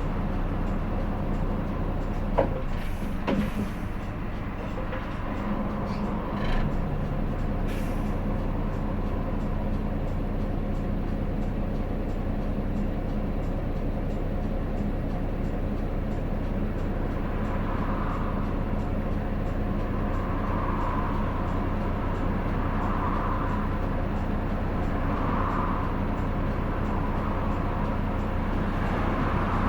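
Interior running sound of a Hino Blue Ribbon City diesel city bus: the engine running steadily, with a sharp click about two seconds in and a few brief hisses over the next several seconds.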